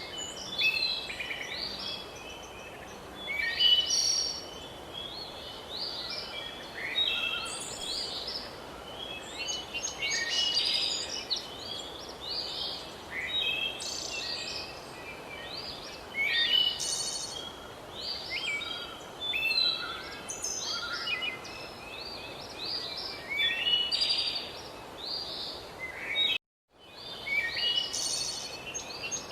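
Chorus of many songbirds chirping and trilling continuously over a steady background hiss. The sound drops out completely for an instant near the end.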